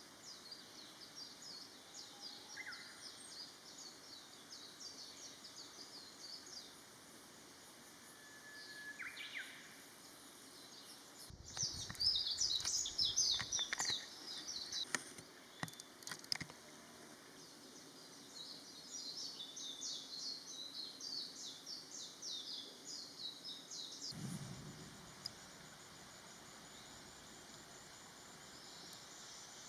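Outdoor ambience of high, fast chirping calls repeated in runs of several seconds, with a brief whistle about a third of the way in and a low thump near the end.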